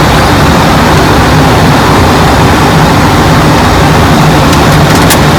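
Steady cockpit noise of an airliner in flight: a loud, even rush of air with a low engine hum beneath it, and a few faint clicks near the end.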